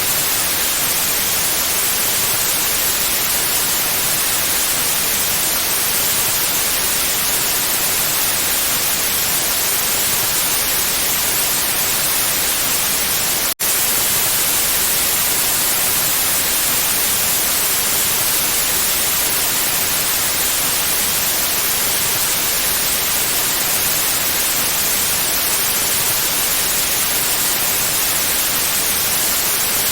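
Steady white noise hiss, an even rush brightest in the high end, with a split-second dropout about halfway through.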